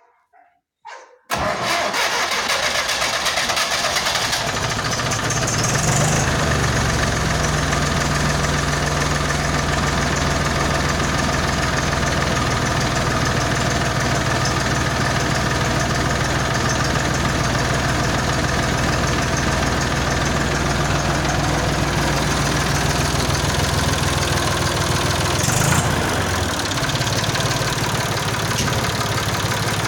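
Ursus C-360 3P tractor's four-cylinder diesel engine starting about a second in, then idling steadily, with a brief rise near the end.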